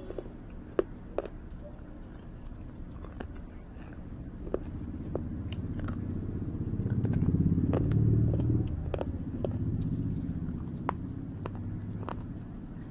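Sharp, irregular crunching clicks of someone biting and chewing crisp food, over a low engine rumble that swells to its loudest about eight seconds in and then fades, as of a vehicle passing.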